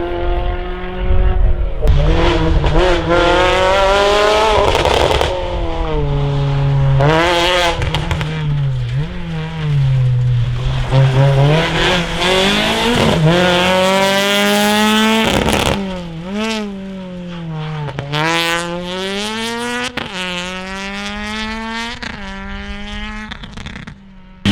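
Rally car engines at full throttle, the pitch climbing and dropping sharply again and again as they shift up and down through the gears, with tyre squeal and a few sharp cracks.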